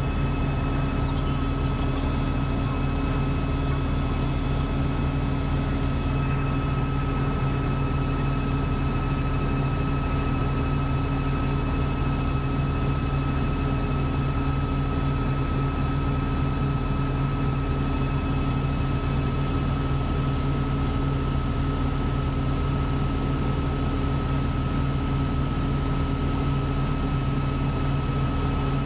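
Helicopter in steady flight heard from inside the cabin: an unbroken drone of rotor and engine with a steady high whine on top.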